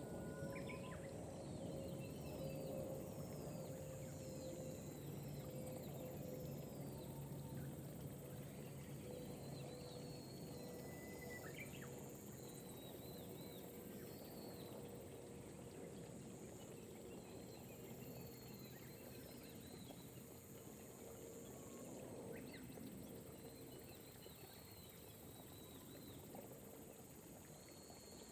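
Gentle rain falling over rice paddies, with birds giving short, repeated chirps and insects trilling steadily in a high pitch. A faint hum slowly drops in pitch underneath.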